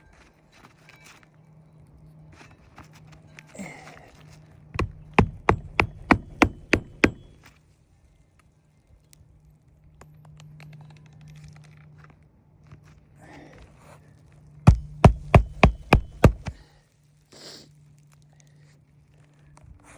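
Hammer driving roofing nails into a replacement shingle: two runs of about eight quick strikes each, a few strikes a second, with light scraping of the shingle between them.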